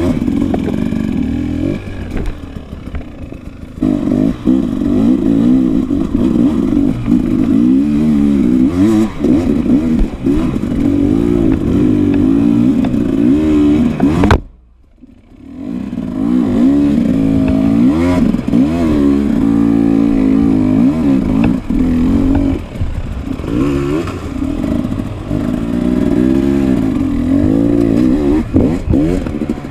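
Enduro dirt bike engine being ridden hard, the revs rising and falling constantly with throttle and gear changes, with some rattle. About halfway it cuts off abruptly with a click for about a second, then comes back.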